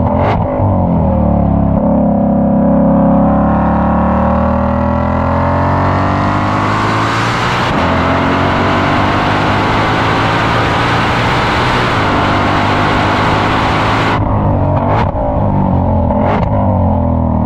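2020 Shelby GT500's supercharged 5.2-litre V8 under hard acceleration, revs climbing steadily and then a gear change about eight seconds in, followed by more high-rev running. Near the end the throttle lifts and two sharp cracks come as it slows.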